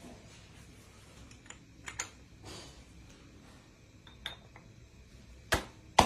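Scattered light clicks and knocks of hard objects being handled, ending with two sharp knocks about half a second apart near the end, the second the loudest.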